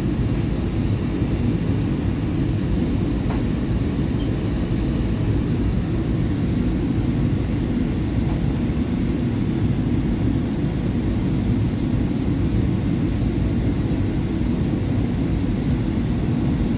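Market–Frankford Line subway train running at speed, a steady low rumble of wheels and traction motors.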